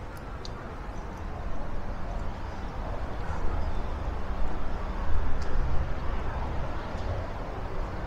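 Steady city street ambience: a low rumble of passing traffic under a general noise haze, swelling slightly about halfway through, with a few faint clicks.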